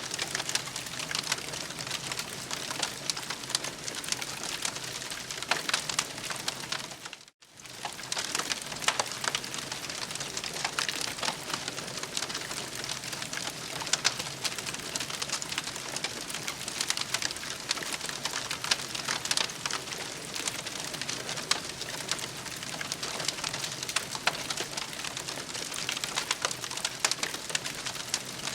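Campfire burning with a steady hiss and dense, irregular crackling and popping. The sound drops out briefly about seven seconds in, then resumes as before.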